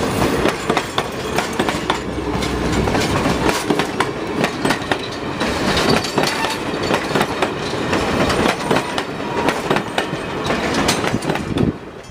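Train cars rolling past, steel wheels clacking over rail joints over a continuous rumble.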